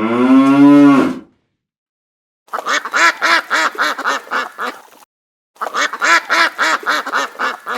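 A cow's moo rising in pitch and ending about a second in. Then two runs of rapid duck quacks, about four a second, each run growing fainter as it goes.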